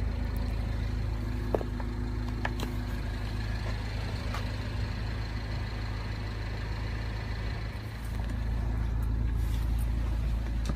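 A steady low vehicle engine rumble, like a car idling, with a few faint clicks.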